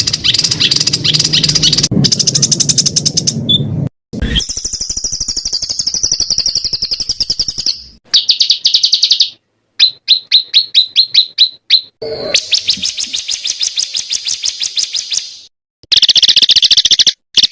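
Songbird song edited into a string of fast, high trills and rattling runs of notes, each a few seconds long and cut off abruptly, with short silent gaps between them; in the middle comes a slower run of sharp, separate notes.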